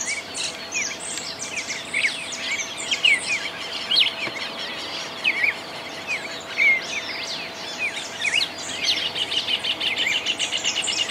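Birds chirping, with many short, quick notes and a fast run of repeated notes near the end. A faint steady hum lies underneath.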